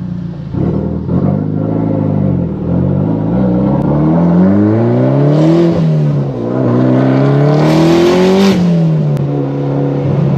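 2015 Mitsubishi Lancer Evolution X Final Edition's turbocharged four-cylinder, with a big turbo, open dump pipe and titanium exhaust, heard inside the cabin accelerating hard from a steady low note. Its pitch climbs, dips briefly about six seconds in, climbs again, then falls back to a steady note. A loud hiss rides on top near the end of each climb.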